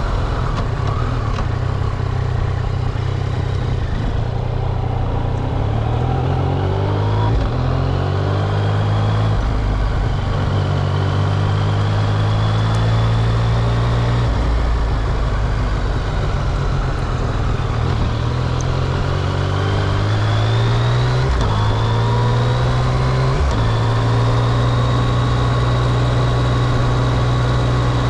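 Yamaha XSR900's three-cylinder engine running while the motorcycle is ridden, its pitch climbing and then stepping several times as it shifts through gears, over steady wind noise.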